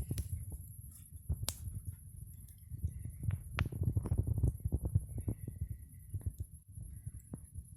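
Campfire burning, the wood crackling and popping in irregular sharp snaps over a low rumble; the crackling is busiest around the middle.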